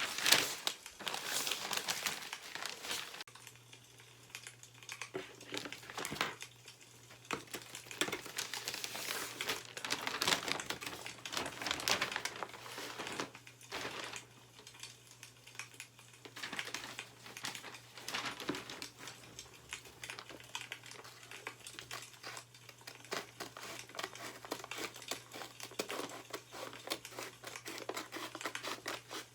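Newspaper pages rustling and crinkling as they are handled and turned, in uneven bursts with scattered clicks. A low steady hum starts about three seconds in.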